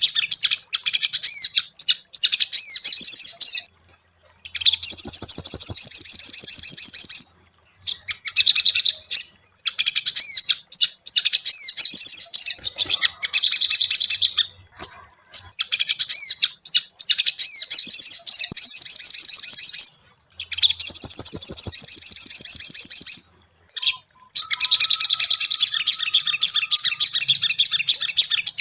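Sogon (sogok ontong) sunbird singing: long runs of rapid, high-pitched chirping trills a few seconds each, broken by short pauses.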